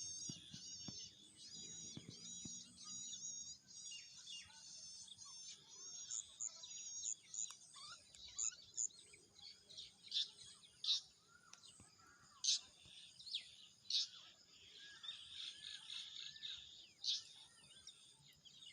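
Several songbirds chirping and singing: one repeats a quick, high warbling phrase over and over for the first several seconds, then sharper, louder single chirps stand out now and then.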